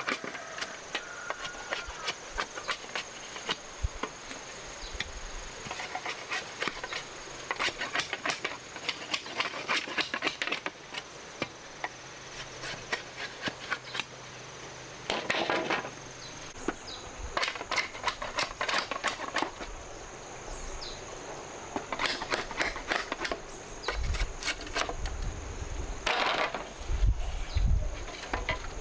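Irregular sharp clicks, taps and short rustling scrapes of work by hand, over a steady high-pitched insect drone; a few dull low thuds near the end.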